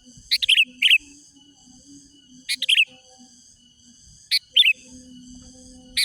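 Sooty-headed bulbul (kutilang) calling in short, loud bursts of quick chirps, four bursts in the six seconds, each a fraction of a second long.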